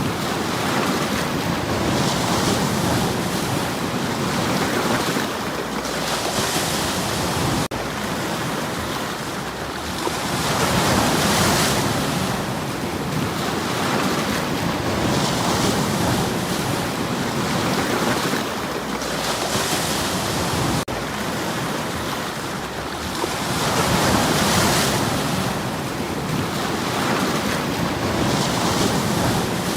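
Sea waves breaking and washing over stones on the shore, surging and receding every few seconds. Twice the sound drops out for an instant, as at a splice.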